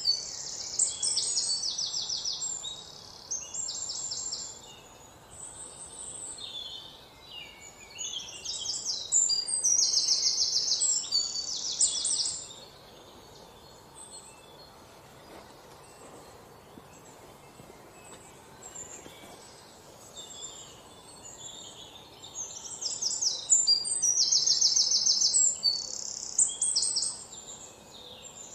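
Small birds chirping, with three loud spells of rapid high trills a few seconds each and softer scattered chirps in between.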